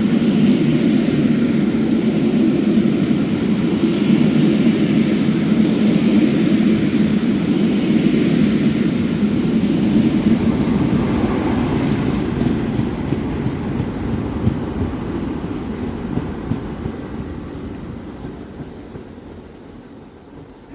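Railtour train of an LMS Jubilee steam locomotive with a Class 47 diesel on the rear running past, a steady loud rumble that fades away over the second half as the train draws off into the distance.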